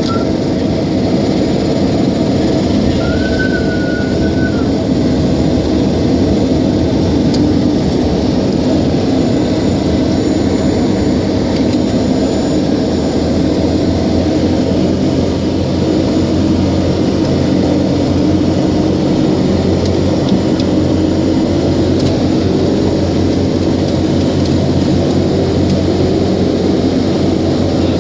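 Let L-410 Turbolet's twin turboprop engines running loud and steady, their tone edging up in pitch in the second half.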